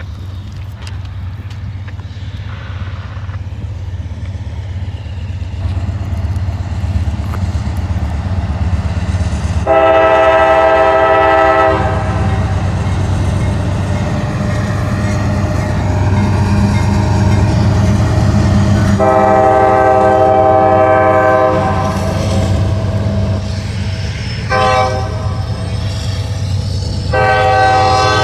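Freight train's diesel locomotive approaching, its low rumble building, while it sounds its multi-chime air horn in the grade-crossing pattern: two long blasts, a short one, then a long one starting near the end.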